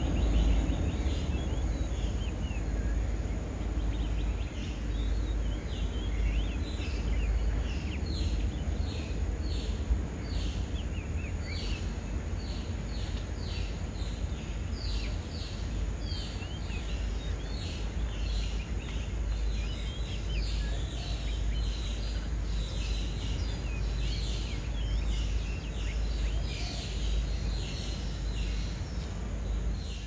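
Small birds calling over a steady low background rumble. Their short, high notes fall in pitch and repeat in quick runs, growing more frequent from about eight seconds in.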